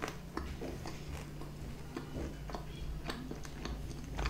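Close-miked mouth sounds of someone chewing pizza with lips closed: scattered soft clicks and smacks over a low steady hum.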